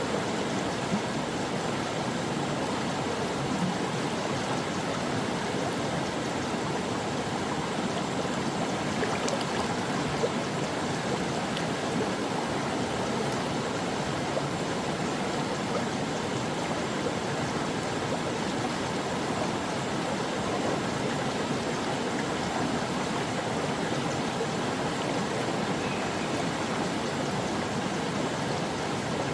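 Stream water running steadily, an even rush that holds the same level throughout.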